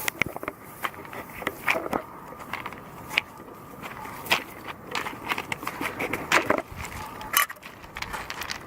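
Irregular crunching and crackling footsteps, a person walking over gravel or through grass, with rustling in between.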